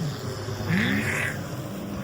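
Off-road race vehicle's engine revving in short, repeated rising bursts, several in quick succession.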